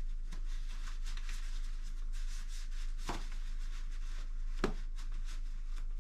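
Hands rubbing and handling small metal parts at the engine's underside, with two sharp clicks, one about three seconds in and another about a second and a half later.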